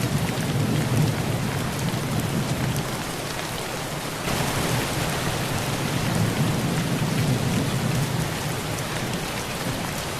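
Heavy rain falling on a thin tin roof, individual drops pinging on the metal, over a continuous low rumble of thunder. The rain grows heavier about four seconds in.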